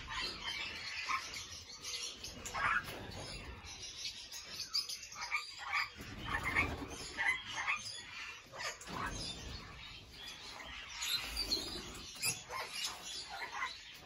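Aviary birds chirping and calling, many short scattered chirps overlapping throughout.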